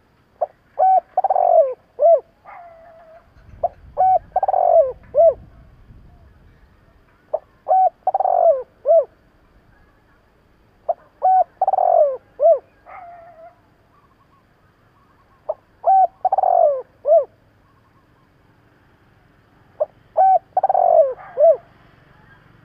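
Spotted dove cooing its song over and over: six phrases about four seconds apart, each a couple of short coos, then a longer, louder falling coo, then a short closing note or two.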